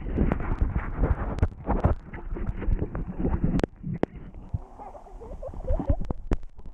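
Water splashing and sloshing right at the microphone, with many small knocks and clicks. About four and a half seconds in it turns quieter and muffled.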